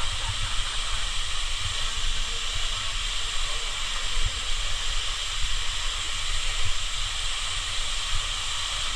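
Waterfall rushing: a steady, even wash of falling water, with a fluttering low rumble underneath.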